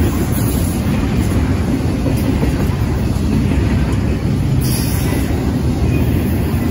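Double-stack intermodal freight train's loaded well cars rolling past close by: a steady rumble of steel wheels on the rails.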